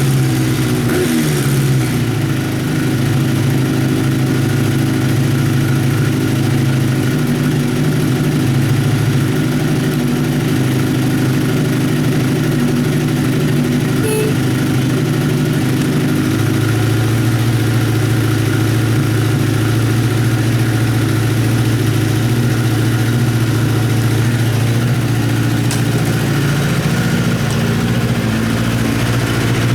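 Honda CBX550F2 Integra's air-cooled inline-four engine idling steadily, its revs settling down in the first couple of seconds and the idle shifting slightly about halfway through.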